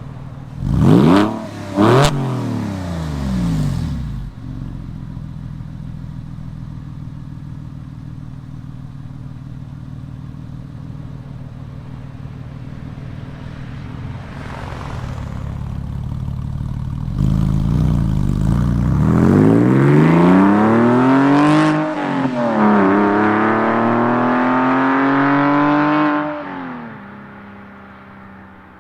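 Porsche 996 Carrera 2 flat-six engine through a custom exhaust, stationary. It gives two quick throttle blips near the start and settles to idle. Later it revs up twice, holding the second rev high for a few seconds, then drops back to idle near the end.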